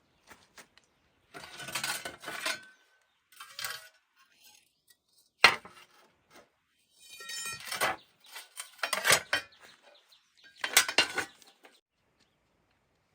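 Metal scraping and clinking in several short bursts, with one sharp knock about five and a half seconds in and a brief ringing scrape soon after.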